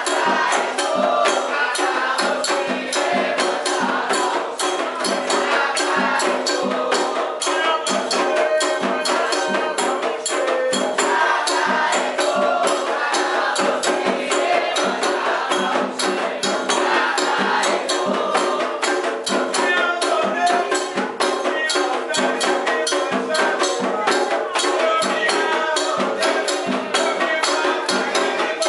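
Candomblé ritual music: percussion keeps a fast, steady beat of sharp strokes under voices singing a chant.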